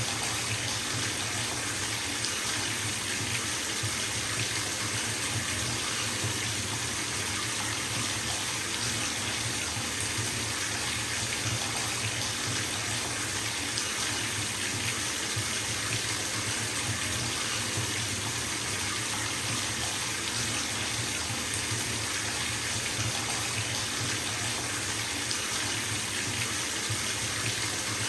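Bathtub filling from a running tap: a steady rush of water pouring into the tub.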